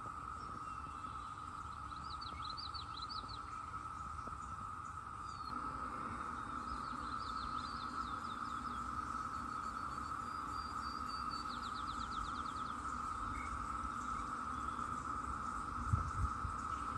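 A chorus of Brood X periodical cicadas, a continuous buzzing held at one pitch, which grows louder about five seconds in. Birds chirp over it now and then, and there are a couple of low thumps near the end.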